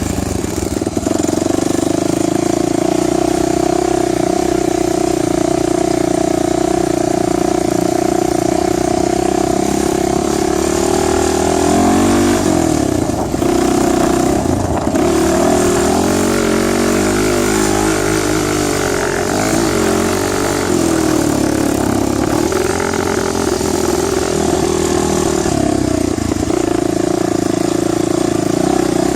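Dirt bike engine running continuously under way, its pitch dipping and rising several times midway through as the revs change.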